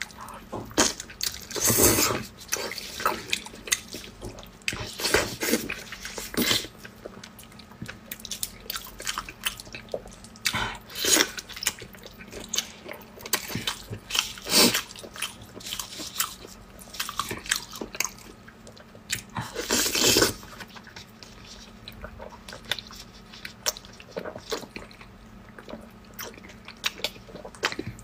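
Close-miked biting and chewing of braised pig's trotters, with irregular mouth and food noises as the sticky, chewy skin is torn and chewed. The louder bites come about two seconds in and about twenty seconds in.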